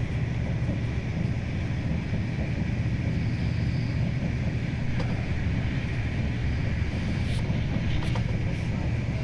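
Passenger train running, heard as a steady, even rumble with a few faint ticks.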